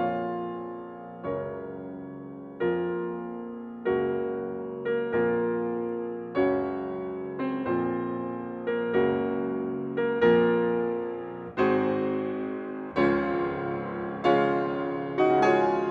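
Background piano music: slow chords struck about once a second or so, each ringing and fading before the next.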